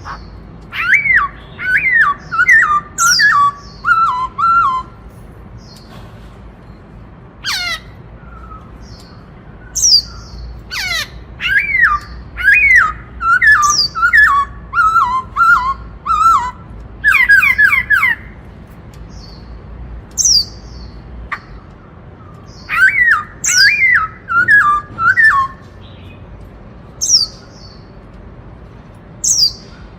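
Black-throated laughingthrush singing loudly in repeated bursts of quick falling whistled notes, the 'bắt cô trói cột' phrase that mimics the Indian cuckoo's call, broken by sharp high downslurred notes and pauses of a few seconds.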